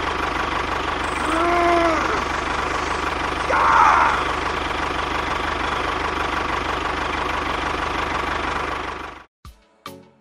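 The DIY mini tractor's motor running steadily under load, with a constant whine and a low hum, and two short voice-like cries over it. The running sound cuts off abruptly about nine seconds in.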